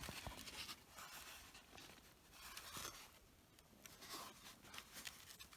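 Faint rustling and scraping of clothing and gear being handled, in soft uneven swells.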